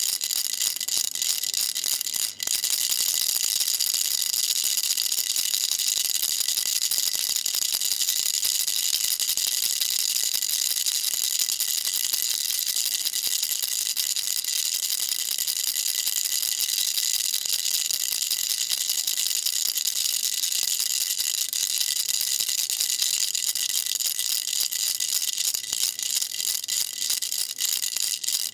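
A baby rattle shaken continuously: a dense, high-pitched rattling, with a brief break about two seconds in.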